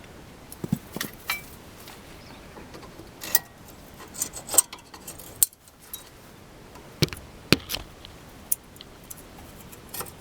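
Irregular metallic clicks and clinks, some with a short ring, from the small steel spring clips and shims of car disc-brake pads being bent and handled by hand.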